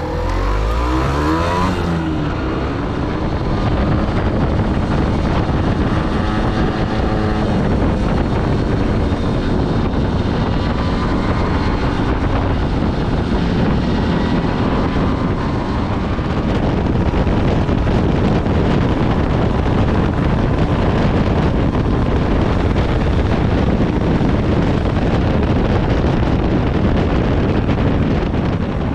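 A 125 cc motorcycle engine revs up as the bike pulls away, its pitch rising over the first couple of seconds. Then heavy wind noise buffets the microphone at riding speed, with the engine running faintly beneath.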